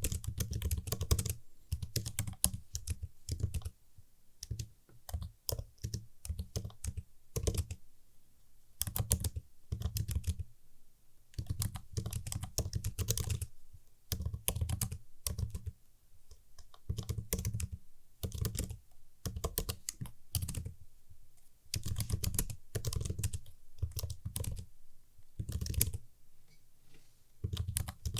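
Typing on a computer keyboard: runs of crisp key clicks, each lasting a second or two, with short pauses between them and a deep thud under each run of keystrokes.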